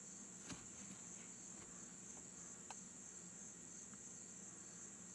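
Crickets chirring steadily and faintly, with a couple of soft clicks.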